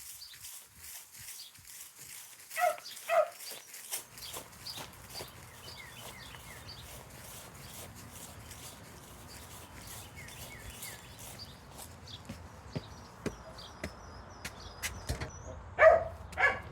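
A dog barks twice, a few seconds in, and twice more near the end, over footsteps and small birds chirping.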